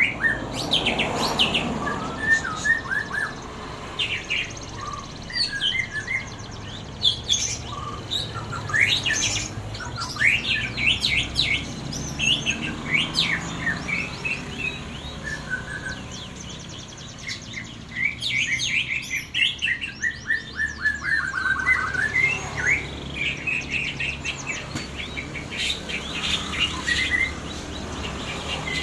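White-rumped shama (murai batu) singing a long, varied song of rapid chirps, trills and clear whistles, with a falling run of notes a bit past the middle.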